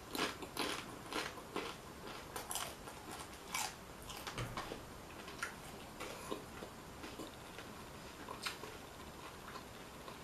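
Chewing a mouthful of crunchy hard-shell corn taco. The crisp crunches come thick for the first few seconds, then thin out to scattered soft crackles.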